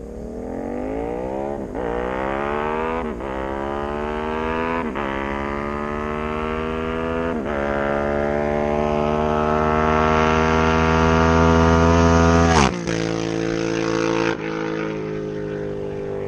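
Yamaha MT-07's parallel-twin engine through a Black Widow exhaust with the dB killer removed, accelerating hard up through the gears: the revs climb and drop at four quick upshifts, then pull long to their loudest before the throttle is shut abruptly about twelve and a half seconds in. It then runs steadier at lower revs, dropping again near the end.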